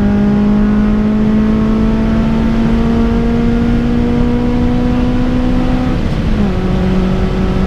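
Honda Civic's tuned 1.5-litre D15 four-cylinder VTEC engine pulling at full throttle near 7,000 rpm, heard from inside the cabin, its note rising slowly. About six seconds in the pitch steps down at an upshift and the engine pulls on in the next gear.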